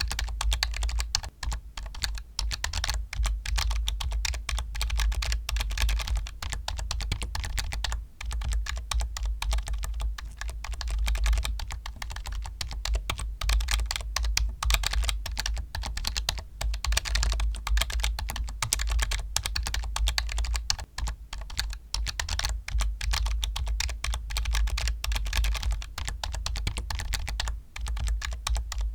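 Computer keyboard typing: fast, continuous key clicks with only a few brief pauses, over a steady low hum.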